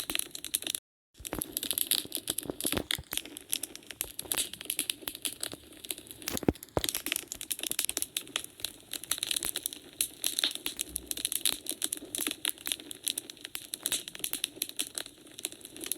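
Wood fire crackling in a fireplace: a dense run of small snaps and pops, with one louder pop about six and a half seconds in. The sound cuts out completely for a moment about a second in.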